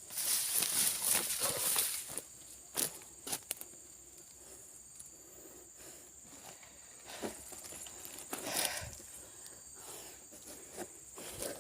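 Brush being slashed and trampled: a dense rustle of vegetation for the first two seconds, then scattered sharp cuts and crackles of stems.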